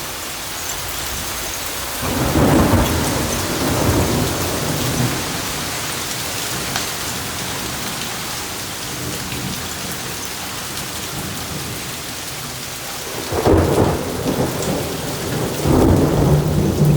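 Thunderstorm: steady heavy rain hissing, with a loud roll of thunder about two seconds in that fades over a few seconds, and another rumble of thunder building near the end.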